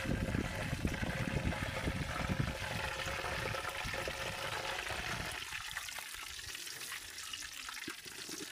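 Food frying in hot oil in a pan, a steady sizzle, with a low rumble over the first five seconds or so.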